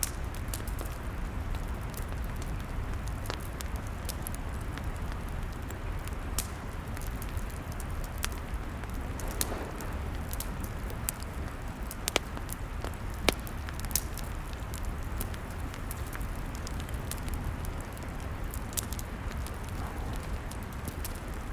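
Log fire crackling: scattered sharp snaps and pops over a steady low rumble, with two louder pops about twelve and thirteen seconds in.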